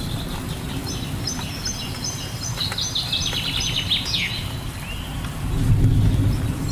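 Songbirds chirping in rapid series of short high calls, with a downward-sweeping call about four seconds in, over a steady low rumble of rain that swells briefly about five and a half seconds in.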